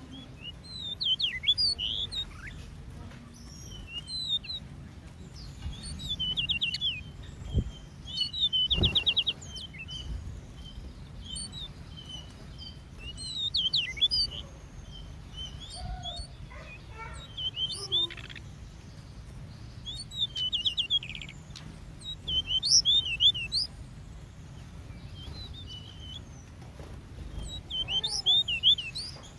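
Several small songbirds chirping, with bursts of high, quick notes every few seconds and now and then a short rapid trill. Under them runs a steady low rumble, and two soft knocks come a little over a third of the way in.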